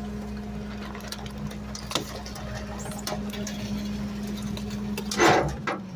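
Garbage truck engine running with a steady hum, heard from inside the cab. A loud short burst of noise comes about five seconds in, and the low rumble then drops away.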